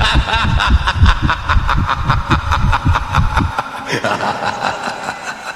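Rapid, rhythmic snickering laughter at about five pulses a second, which stops about three and a half seconds in and leaves a fainter sound that fades away.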